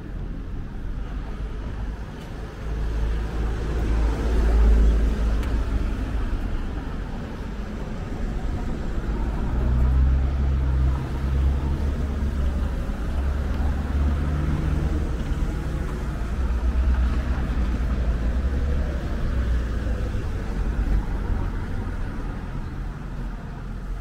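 A motor vehicle's engine running close by with a steady low hum and rumble, swelling about four seconds in and again from about ten seconds in, over street traffic noise.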